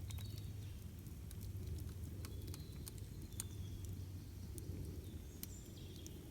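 Wood campfire burning with a steady low rumble and scattered sharp crackles and pops. A few short high bird chirps sound over it.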